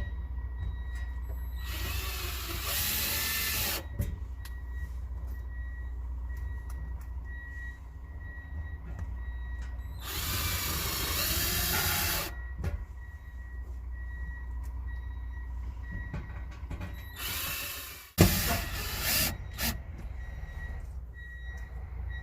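Power drill run in three bursts of about two seconds each, over a steady low rumble, with a sharp knock and a few short bursts of the drill after it near the end.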